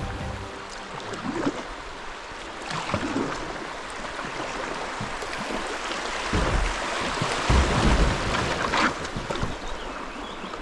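River water rushing and splashing around a kayak on the move, with wind rumbling on the microphone now and then, most strongly just past the middle.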